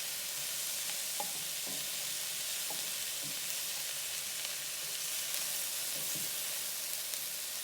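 Chopped onions and mushrooms sizzling steadily in hot oil in a pot, with a few light knocks scattered through.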